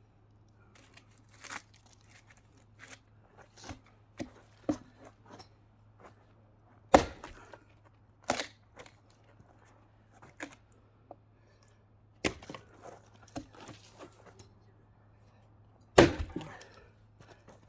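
Axe splitting firewood rounds along partial chainsaw cuts: four hard, irregularly spaced strikes, the loudest near the end, with lighter knocks and wood cracking in between.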